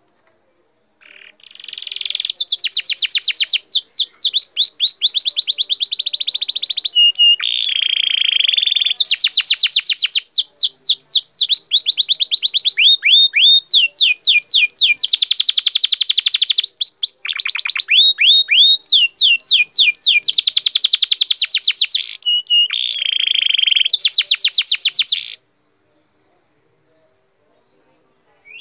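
A songbird singing one long, continuous, varied song of fast repeated trills and buzzy notes, lasting about 24 seconds and stopping abruptly.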